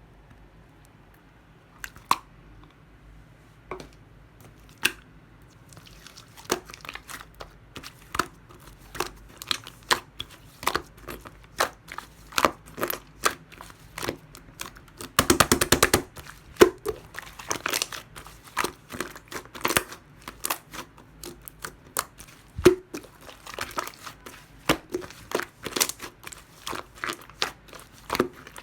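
Clear glitter slime being pressed, stretched and folded by hand, giving irregular sharp clicks and pops. The clicks are sparse at first and come thick and fast from about six seconds in, with a short dense crackle about halfway through.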